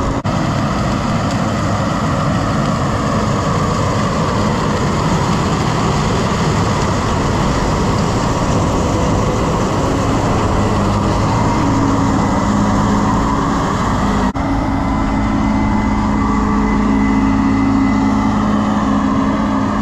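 Heavy farm machinery running steadily while harvesting corn: a diesel engine hum under a constant rushing noise. There is a brief dip in level about fourteen seconds in, after which the hum comes through more strongly.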